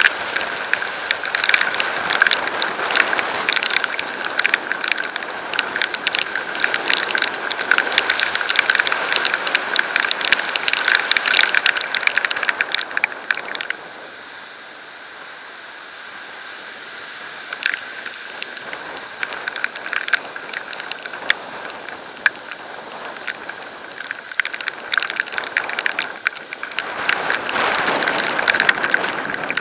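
Rain drumming on the camera during a ride, a dense patter of drops over steady road and tyre noise. The patter is heavy at first, drops off to a quieter hiss about halfway in, and comes back hard near the end.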